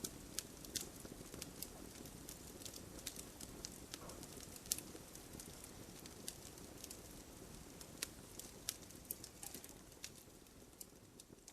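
Wood campfire burning: a steady low rush of flames with frequent, irregular sharp crackles and pops.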